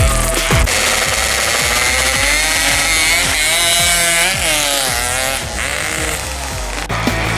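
Two-stroke 135cc sport-class road-race motorcycles at high revs. Their engine pitch climbs steadily, then sweeps down as the bikes go by.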